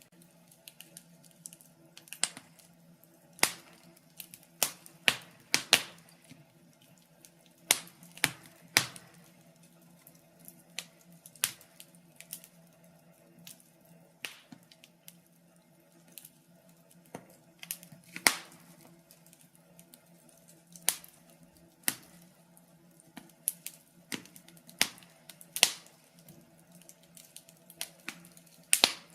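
Logs burning in a fireplace, crackling: irregular sharp pops and snaps, sometimes single and sometimes in quick clusters of two or three.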